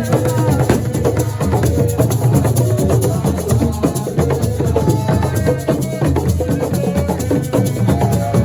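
Live percussion-driven music: drums with shakers and wood-block clicks keeping a steady rhythm over a pitched melody line.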